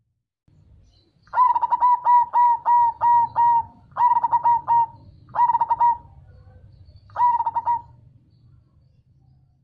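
Zebra dove (perkutut) cooing: four phrases of quick staccato coo notes, the first and longest about two seconds, the last ending a couple of seconds before the end.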